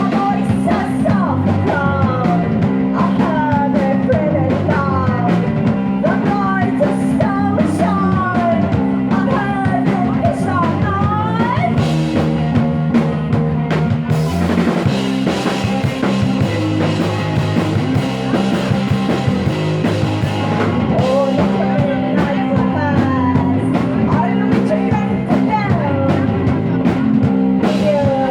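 Rock music played by a band with a drum kit, loud and continuous, with bending melodic lines that shift in texture about halfway through.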